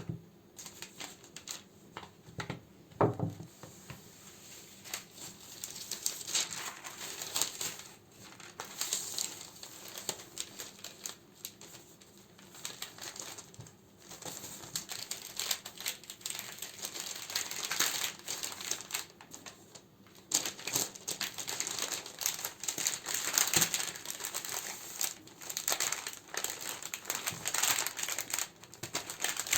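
Plastic and paper packaging crinkling and rustling in irregular bursts as candles are handled and sorted, with a knock about three seconds in.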